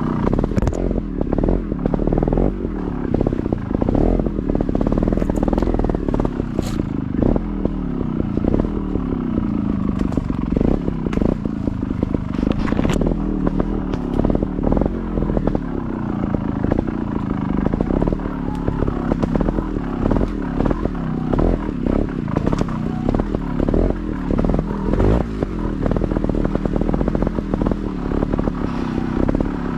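Motorcycle engine being ridden off-road, its revs rising and falling over and over as the throttle is worked, with occasional clatter and knocks.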